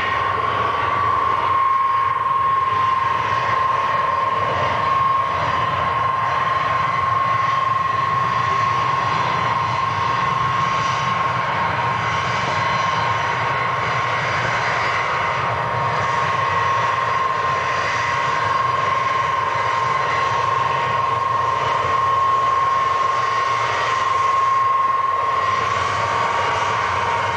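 Jet airliner engines running with a steady high whine over a low rumble, holding an even pitch and level throughout.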